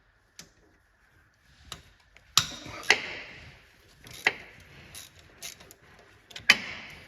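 Irregular sharp metallic clinks and knocks from hand tools and car parts being handled, with several louder clanks that ring briefly.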